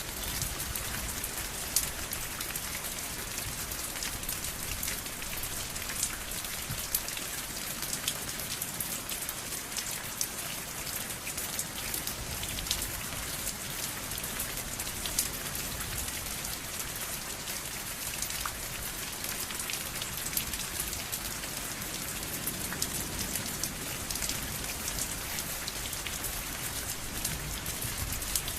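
Steady rain falling on a surface, a dense patter of drops with sharp individual drop clicks throughout.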